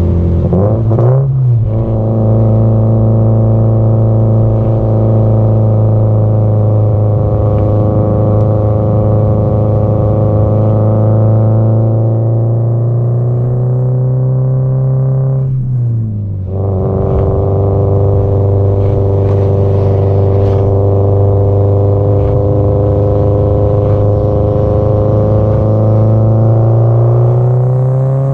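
Subaru Impreza WRX STI (GDB-E) turbocharged flat-four engine and exhaust under way at speed. The engine note climbs slowly through a gear, then dips and picks up again with a gear change about a second in and again about 16 seconds in.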